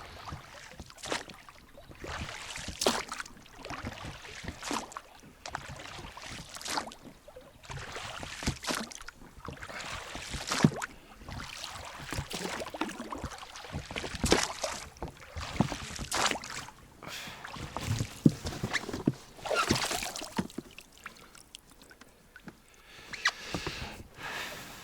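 A small boat being rowed by hand with oars: irregular strokes every second or two, each a splash and swish of water with sharp knocks from the oars against the boat, while the outboard motor is stalled.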